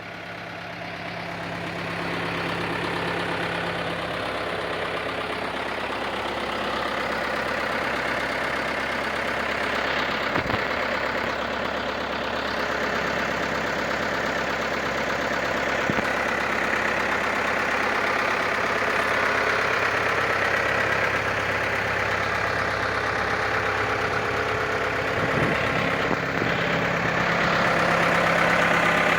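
Case JX95 tractor's diesel engine running steadily at idle.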